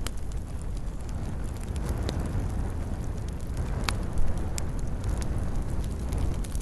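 Wood fire burning in a fireplace: a steady low rumble with scattered crackles and pops, one sharper pop about four seconds in.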